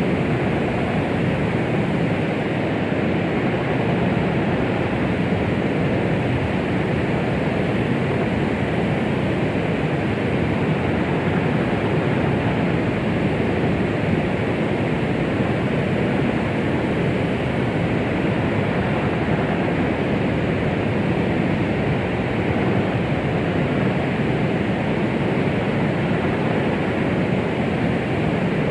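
Steady white-noise track of the 'womb sound' kind used to settle babies: an even, muffled rushing hiss that stays level throughout, heavier in the low and middle range than in the treble, with no heartbeat or other rhythm in it.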